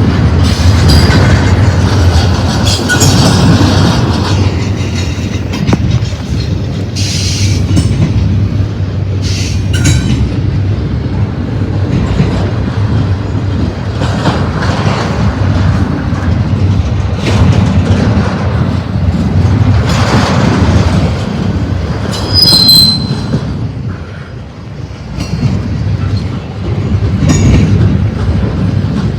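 Double-stack intermodal freight cars rolling past: a steady rumble and clatter of steel wheels on rail, with a brief high-pitched wheel squeal about three quarters of the way through.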